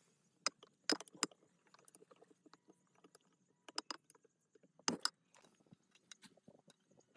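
Irregular clicks and knocks of tools and metal parts being handled, with sharp knocks about a second in and near five seconds in.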